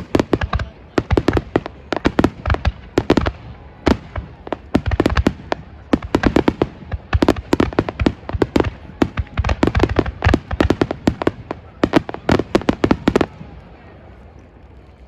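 Fireworks display: a dense barrage of aerial shell bursts, several bangs a second, that stops suddenly about thirteen seconds in.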